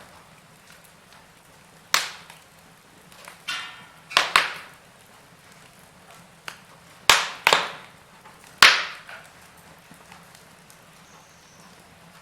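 Wood fire crackling: burning logs give off a series of sharp, irregular pops and snaps, about eight of them, over a low steady hiss.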